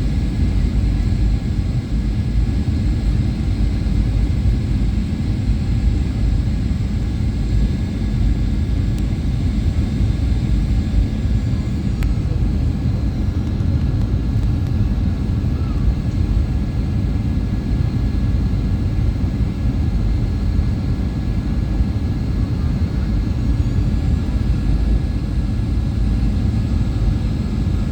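Steady cabin noise inside a Boeing 737-800 airliner: a constant low rumble of engines and airflow, with faint steady high-pitched whines over it.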